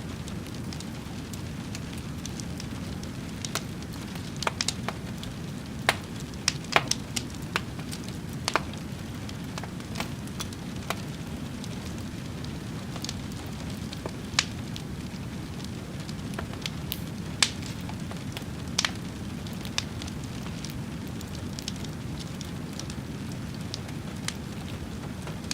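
Wood fire crackling: irregular sharp pops and snaps, a few louder ones, over a steady low rush of burning.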